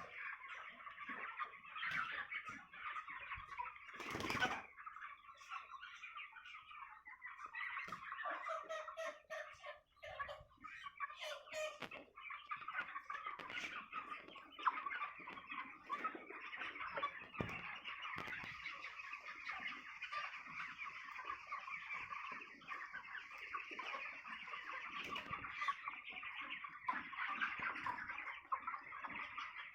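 A large flock of 29-day-old chickens cheeping and clucking continuously in the poultry shed, many calls overlapping. A single sharp knock comes about four seconds in.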